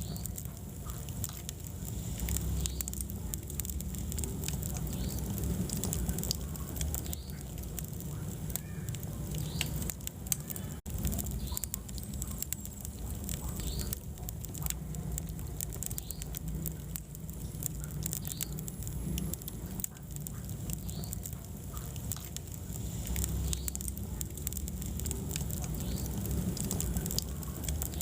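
Wood fire burning in a fireplace: a steady low rumble of flames with scattered crackles and pops and short, high squeaks. The sound drops out for an instant about eleven seconds in.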